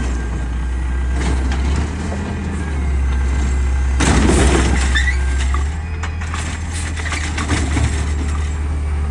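Peterbilt 520 garbage truck's diesel engine running with a steady low drone, with a louder stretch of mechanical noise about four to six seconds in.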